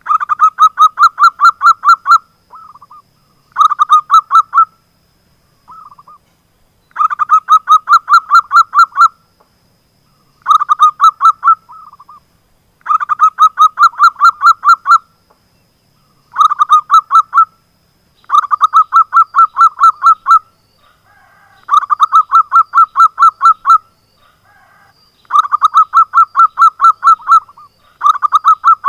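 Zebra dove (perkutut) singing, loud and close: repeated phrases of quick, even cooing notes, about five a second, each phrase one to two seconds long with short pauses and a few soft notes between. A vigorously singing ('gacor') local bird, used as a lure call to draw other zebra doves.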